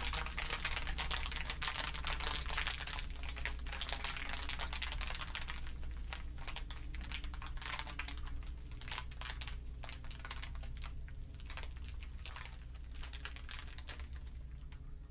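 Layered crinkling, a dense patter of sharp crackles that thins out and fades toward the end, over a faint steady low hum.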